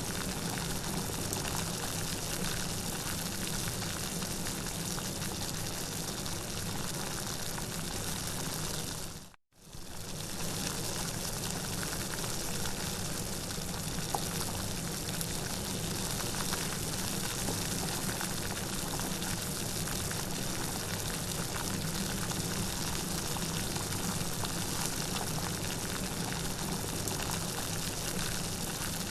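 Steady rain, a dense even hiss of falling water. About a third of the way through it drops to silence for a moment, then fades quickly back in.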